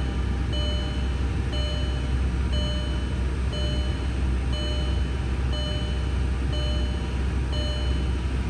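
VW Passat 1.8T turbo four-cylinder engine idling with no throttle, a steady low rumble, while a car's warning chime beeps about once a second. The owner has a rough, hunting idle that he suspects comes from a vacuum leak.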